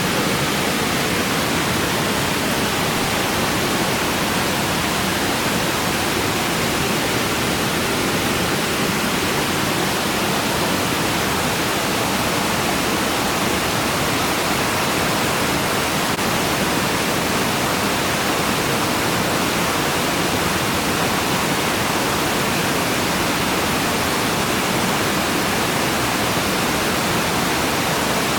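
Waterfall rushing: a steady, loud, unbroken sound of falling water.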